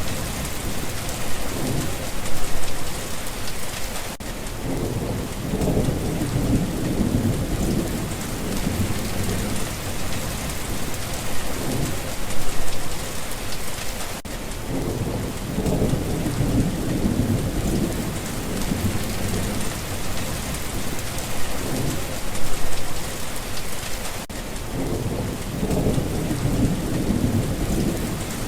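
Steady rain with low rolling thunder rumbling under it several times. The same stretch of rain and rumbles repeats about every ten seconds, as in a loop.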